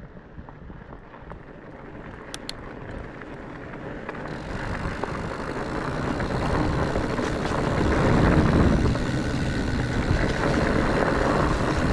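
Riding noise from a fat bike on the trail: wind rushing over the microphone and tyre rumble, growing steadily louder as the ride gets going, with a couple of faint clicks about two and a half seconds in.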